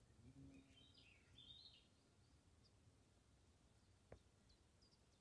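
Near silence: faint woodland ambience with a few distant bird chirps about a second in and a single soft click near the end.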